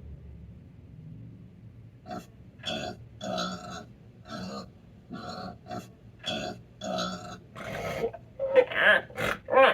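Pig oinking: a steady run of short grunts, about one every half second or so, turning into louder, higher, wavering squeals near the end.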